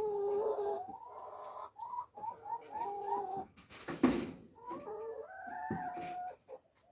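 Backyard hens calling: drawn-out notes and a quick run of four short rising clucks. A sharp knock comes about four seconds in.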